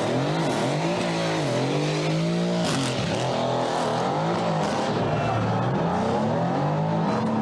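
Mercedes-AMG car engine revving repeatedly, its pitch climbing and dropping several times in quick succession.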